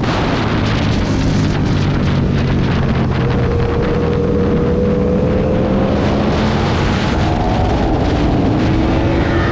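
Aprilia Tuono V2 1000's V-twin engine running at speed around a racetrack under heavy wind rush on the microphone, its pitch shifting as the rider works the throttle and rising again near the end.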